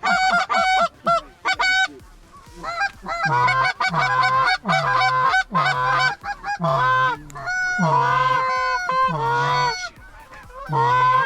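Loud, rapid Canada goose honking and clucking, call after call, each breaking from a low grunt up to a high honk, with short pauses about two seconds in and shortly before the end.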